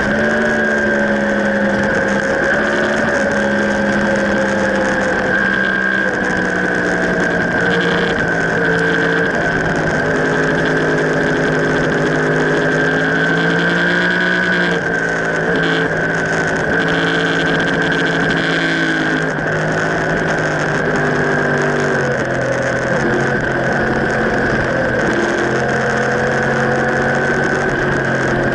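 Sport motorcycle engine running hard on a race track, heard from a tail-mounted camera with wind rushing past. The engine note rises and falls with the throttle through the corners, with a steady high whine over it, and drops in steps twice near the end.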